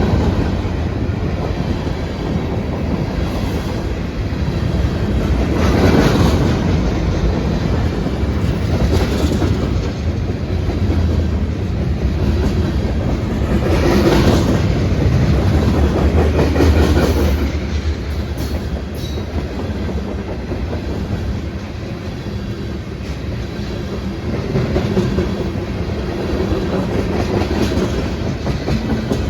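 Freight train cars rolling past at track side: a continuous loud rumble with the clickety-clack of wheels over the rail joints, swelling and easing as cars go by.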